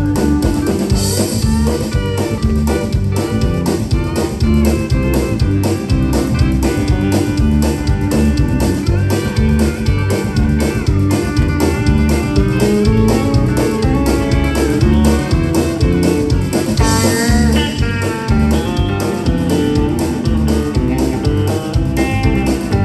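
Instrumental break in a country-rock band song: guitar lead over bass and a steady drum beat, with cymbal crashes about a second in and again around seventeen seconds.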